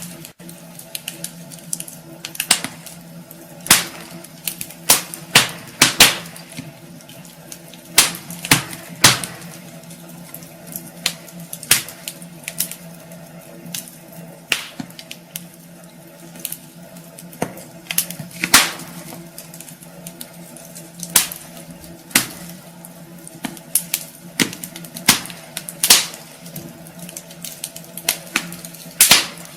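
Wood fire burning in a fireplace, crackling with irregular sharp pops, roughly one or two a second, over a soft steady hiss, with a faint steady low hum underneath.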